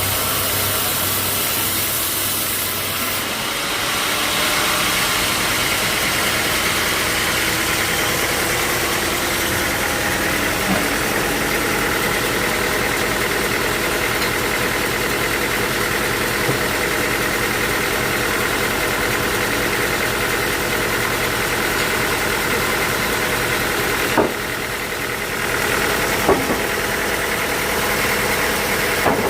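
Sawmill machinery running steadily, an engine-like hum with a few short knocks.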